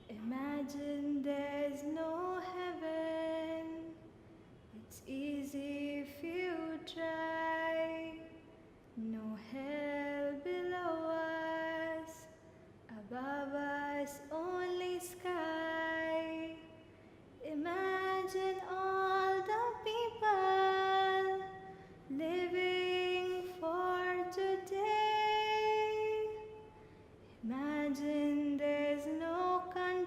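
A woman singing a slow song alone, in phrases of two or three seconds with short breaks between them.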